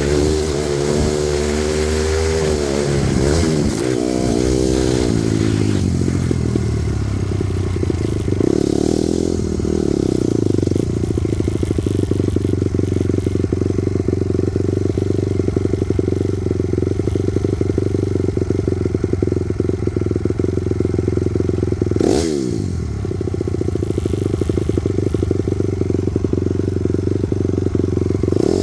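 Honda CRF250R dirt bike's four-stroke single-cylinder engine being ridden hard. In the first few seconds the revs rise and fall through the gears, then hold at a steady high pitch. About three-quarters of the way through the throttle is shut briefly, and the pitch drops and climbs straight back up.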